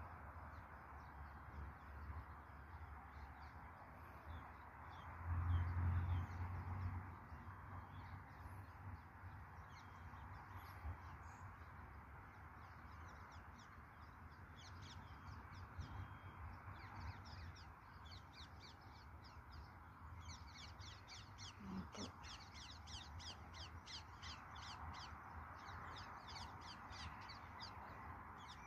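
Faint outdoor ambience: birds calling in a rapid series of short high notes, densest in the last third, over a steady distant hum. A brief low rumble comes about a fifth of the way in.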